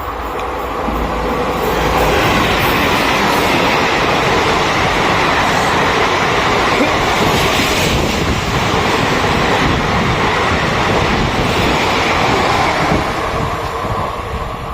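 Indian Railways express train passing at speed: a steady rushing noise of wheels and coaches on the track that builds over the first couple of seconds and eases off near the end.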